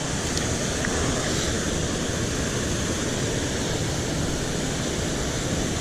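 Water pouring over a small spillway, a steady rushing with no break.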